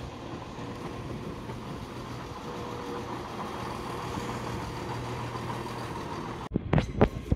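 ScotRail electric multiple-unit train moving slowly through the platform, a steady low hum with a faint whine over it. About six and a half seconds in, a few loud thumps hit the microphone.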